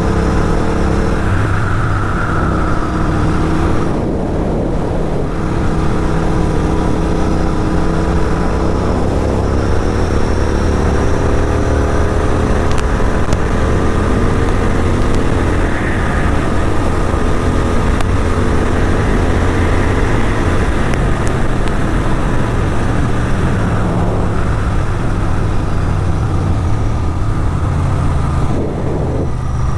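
Motorcycle with an aftermarket Atom exhaust running hard at highway speed, heard from the bike with wind rush over the microphone. The engine note climbs gently for a stretch and eases briefly about four seconds in and again near the end.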